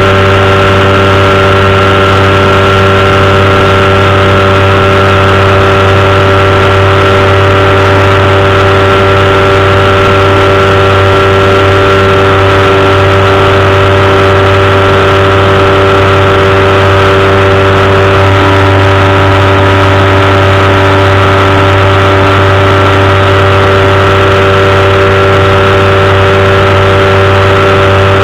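Powered parachute's engine and propeller running steadily at cruise, a loud, unchanging drone.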